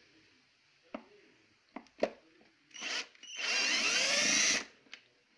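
Cordless electric screwdriver running in a short blip, then for about a second with its motor pitch shifting, after a few sharp handling clicks.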